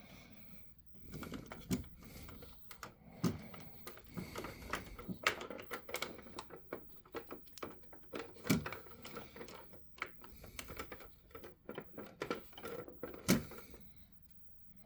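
Irregular clicks and light knocks from a hand handling a radio-controlled Western Star dump truck model, with a few sharper knocks, the loudest near the end.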